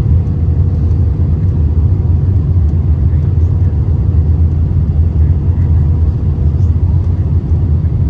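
Cabin noise inside an Airbus A319 airliner during its landing: a loud, steady low rumble with no distinct events.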